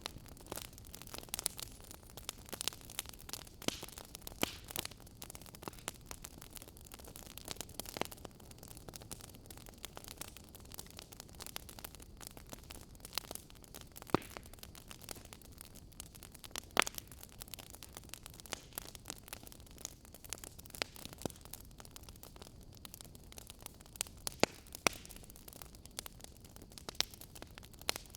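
Campfire crackling: a steady hiss of burning wood with frequent sharp pops and snaps at irregular intervals, a few louder ones standing out.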